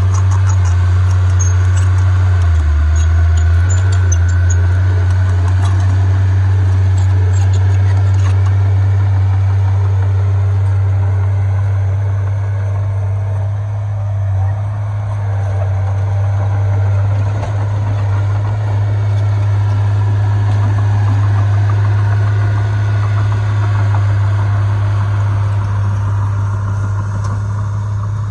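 Heavy earthmoving machine's diesel engine running steadily with a strong low drone, with faint clicks and rattles in the first several seconds.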